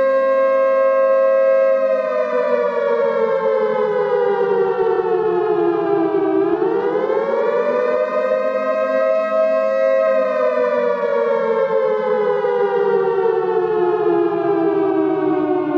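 Civil-defence warning siren wailing in two notes at once: it holds its pitch, winds slowly down, climbs quickly back up about six seconds in, holds again, then winds slowly down once more.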